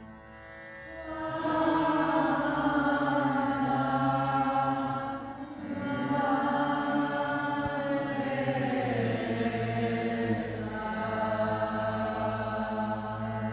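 Chanting: long, held vocal tones sung over a steady low drone. The chant rises about a second in, pauses briefly for breath about five seconds in, then carries on.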